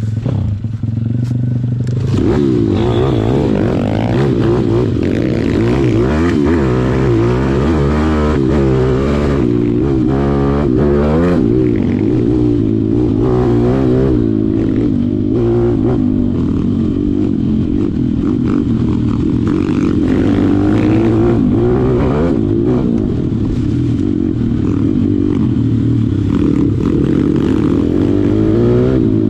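Small single-cylinder pit bike engine being ridden hard, revving up and down again and again as the throttle opens and closes.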